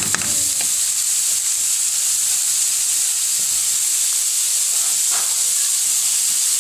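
Diced carrot and onion sizzling in oil in a pan, a steady hiss, with a spatula clicking and scraping against the pan at the start and again about five seconds in.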